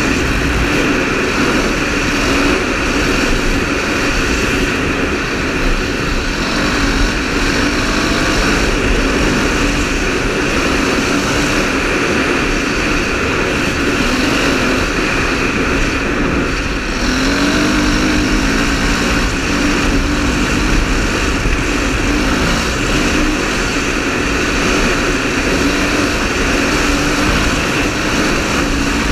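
KTM 530 rally motorcycle's single-cylinder four-stroke engine running under way, its pitch rising and falling as the revs change, most clearly in the second half, over a steady rush of wind noise.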